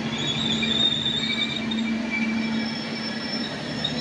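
Passenger coaches of a KAI train rolling past close by: steel wheels running on the rails, with high, steady wheel squeal over the rumble and a steady low hum.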